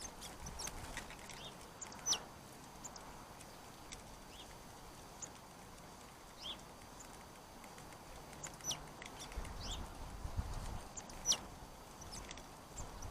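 Blue tits giving scattered short, high-pitched calls, each a quick falling note, the loudest about two seconds in and about eleven seconds in. A low rumble sounds for about a second and a half near the end.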